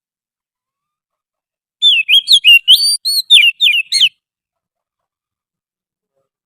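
Oriental magpie-robin song from a lure-call recording: one phrase of about two seconds of quick, varied whistled notes sliding up and down, starting about two seconds in.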